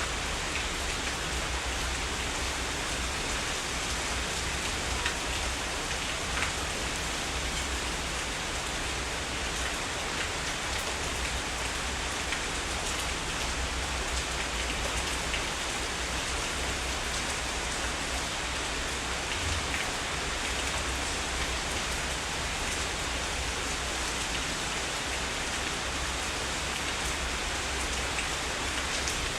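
Heavy rain falling steadily: a dense, even hiss of drops with scattered individual drop ticks.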